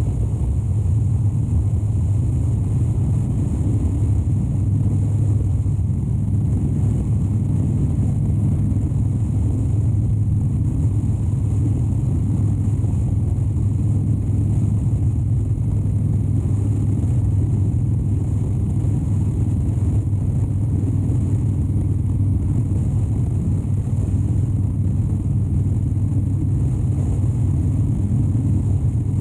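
2013 Harley-Davidson Dyna Wide Glide's 103-cubic-inch air-cooled V-twin running steadily at highway cruise, a deep, even engine note.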